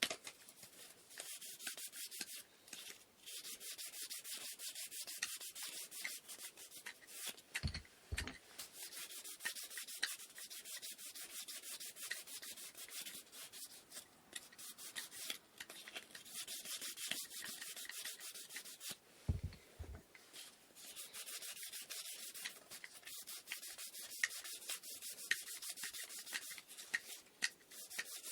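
Hand sanding of a wooden inkle loom part with sandpaper: quick back-and-forth rubbing strokes with a few short pauses. Two low double thumps come about eight seconds in and again about twenty seconds in.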